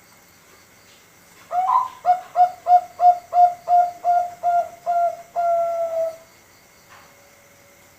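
Five-month-old male Bangkok-line zebra dove (perkutut) singing one contest-style song phrase. It opens with a note about one and a half seconds in, runs through about ten short coos at roughly three a second, and ends on one long held note.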